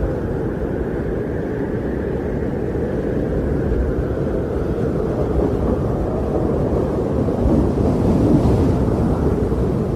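Winter wind blowing in a steady, low rushing rumble, swelling in a gust near the end.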